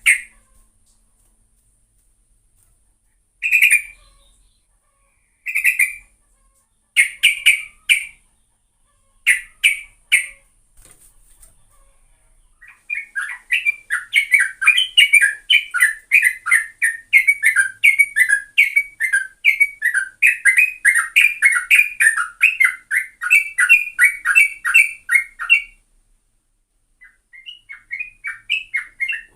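Yellow-vented bulbul (trucuk) singing: a few short bursts of chirping notes over the first ten seconds, then a long, rapid, unbroken chattering run of about thirteen seconds (the 'ropel' song) that stops abruptly, with song resuming near the end.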